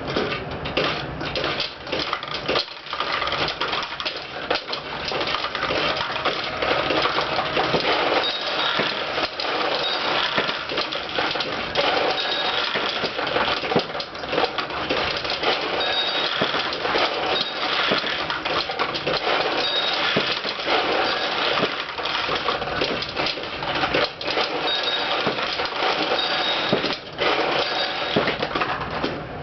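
Pachinko machine in play: steel balls being fired and clattering down through the pins, a dense, continuous metallic rattle, with short high tones now and then.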